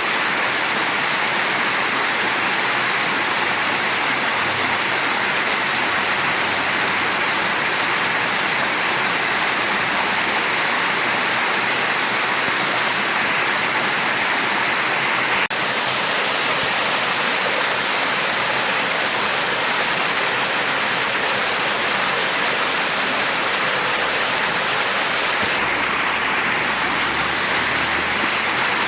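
Mountain stream rushing steadily over rocks, an even hiss of flowing water, with one brief tick about halfway through.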